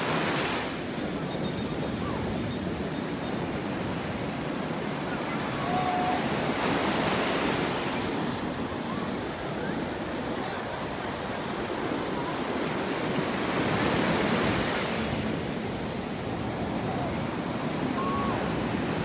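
Sea waves breaking on a beach, the surf swelling and falling away in big surges about every seven seconds.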